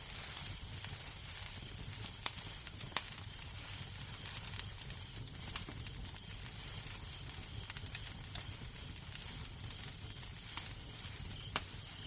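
Wood fire crackling in a fireplace: a steady soft hiss over a low rumble, broken by scattered sharp pops, several in the first three seconds and a few more later.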